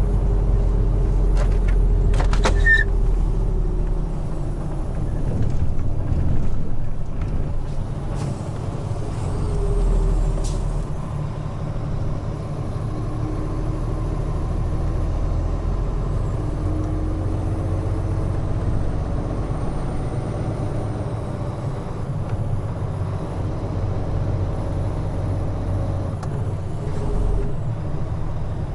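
Large truck's diesel engine and road noise heard from the cab while driving, the engine pitch drifting up and down. There are a few sharp clicks and short hisses about two seconds in and again around eight to ten seconds.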